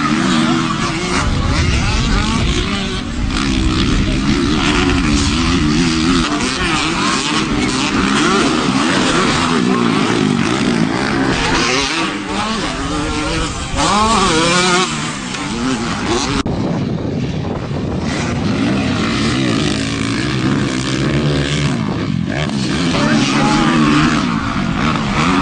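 Motocross dirt bike engines revving hard, their pitch rising and falling as the bikes race around the track.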